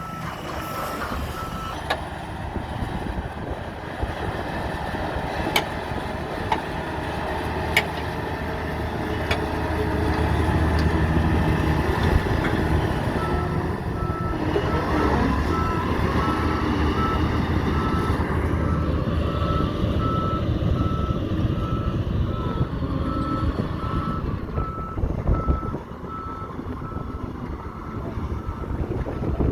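Heavy diesel truck running, with its reversing alarm beeping at an even pace briefly at the start and again from about halfway in. A few sharp knocks sound in the first third.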